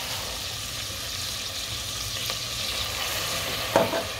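Sliced tomatoes, green chillies and garlic sizzling in butter in an aluminium pot, with a wooden spoon stirring. There is a steady hiss, a couple of light clicks and one sharp knock near the end.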